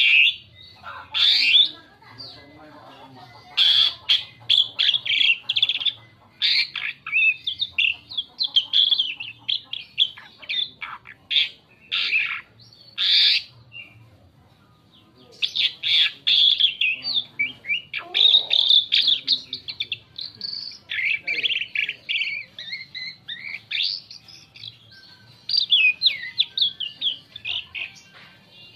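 Asian pied starling (jalak suren) singing a varied song: runs of quick chattering, whistled and harsh notes, broken by short pauses, the longest about halfway through.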